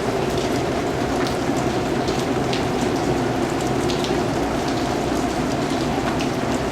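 Steady rain, a dense even wash with scattered individual drops ticking on a hard surface.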